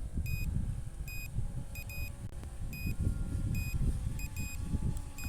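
Short electronic warning beeps from the SJRC F11s drone's controller or app, repeating in ones and pairs under a second apart: the drone's low-battery warning. Heavy wind rumble on the microphone underneath.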